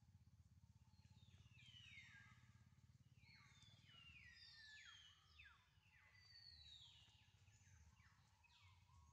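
Near silence with faint bird calls: a run of high whistles, each sliding down in pitch, repeated many times over a low steady hum.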